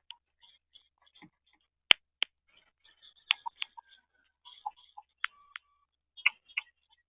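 A red-winged blackbird feeding: a string of irregular sharp clicks and short chips, the loudest a crack about two seconds in.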